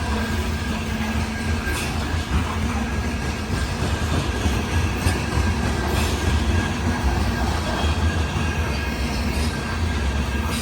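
Freight train of loaded grain hopper cars rolling past: a steady low rumble of wheels on rail with a few brief clanks and a faint, thin squeal tone held throughout.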